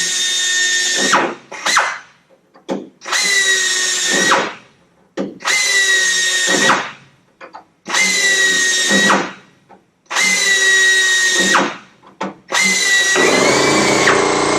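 Hand drill boring rivet holes through aluminium aircraft skin, run in about five short bursts of a steady high whine, one hole per burst, with brief pauses between.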